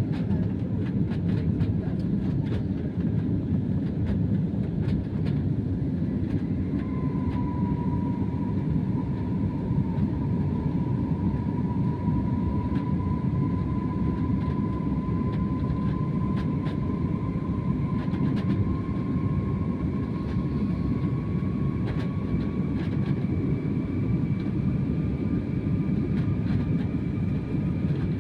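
Airbus A320 jet engines running at high power during takeoff: a steady low rumble, with an engine whine that comes in about seven seconds in and slowly rises in pitch.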